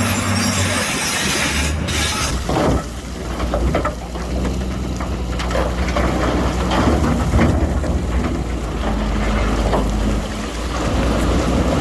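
Diesel engine of heavy earthmoving machinery running with a steady low drone, with a few scattered knocks about three seconds in.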